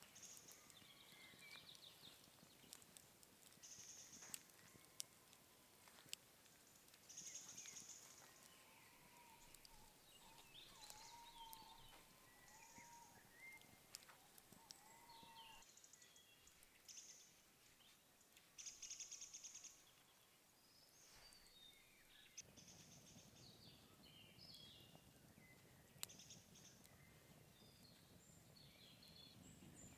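Faint woodland birdsong from several birds: short chirps and whistled phrases, a few high buzzy trills, and a lower wavering whistle in the middle. A few sharp clicks, and a soft low rustle from about two-thirds of the way through.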